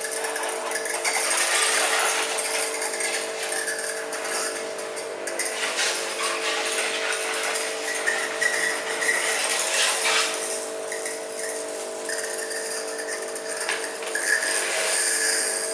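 A machine running with a steady hum, with a hiss over it that swells and fades several times.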